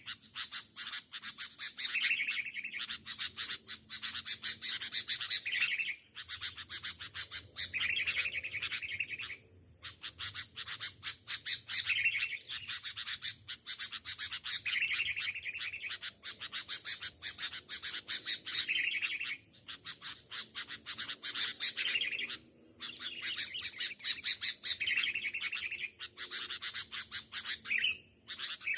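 Sooty-headed bulbuls calling: a dense run of quick, repeated chirps, broken by short pauses every few seconds.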